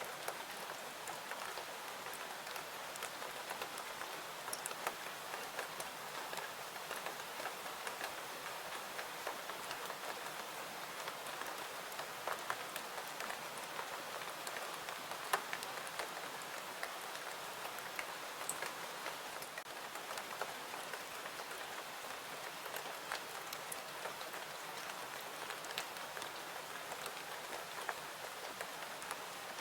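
Steady rain falling, an even hiss sprinkled with scattered sharp ticks of individual drops.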